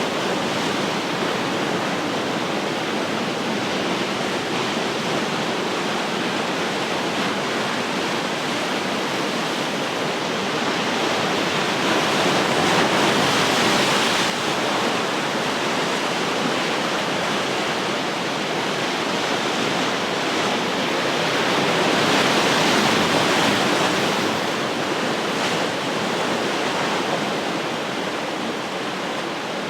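Ocean waves breaking and washing on the shore: a steady rush of surf that swells twice, once cutting off sharply about halfway through and again later on.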